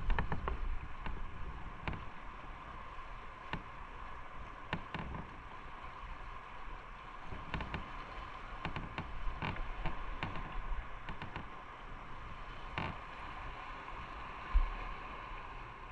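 Motorcycle running on the road, with steady road and wind noise and scattered small knocks, and one louder low thump near the end.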